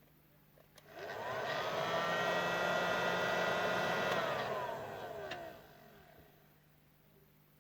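Hot-air soldering gun's blower switched on with a click, spinning up in a rising whine, running steadily for about three seconds, then winding down in a falling whine. A second click comes as it dies away.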